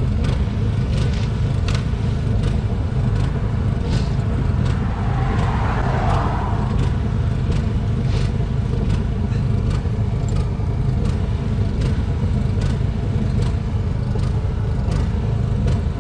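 A motor running steadily with a low, even drone, and a faint regular tick about every 0.7 s. A brief hiss comes about five seconds in.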